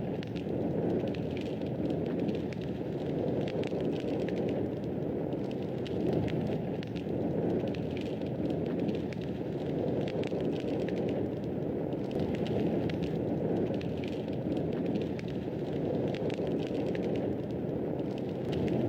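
Wood fire in a fireplace burning, with a steady low rush and frequent small crackles and pops scattered through it.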